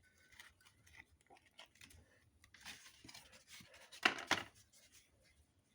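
Firewood crackling as it burns in the firebox of a freshly top-lit solid-fuel boiler: scattered small pops and snaps, with a louder cluster of crackles about four seconds in.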